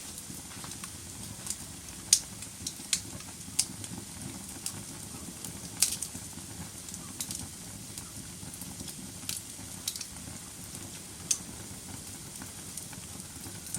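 Wood fire burning in a fireplace: a steady low noise of flames with irregular sharp pops and crackles from the burning logs, the loudest about two and six seconds in.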